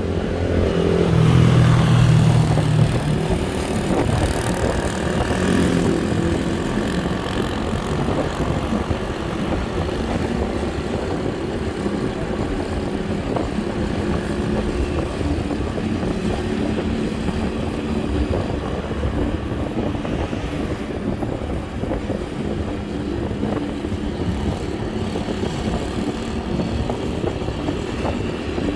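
Steady road traffic and engine noise heard while riding, with a louder low-pitched vehicle sound for a couple of seconds near the start.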